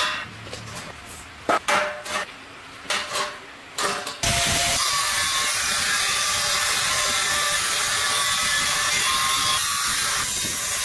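A few scattered knocks and clatters of tool handling, then about four seconds in a power tool starts abruptly and runs steadily at a high, even pitch.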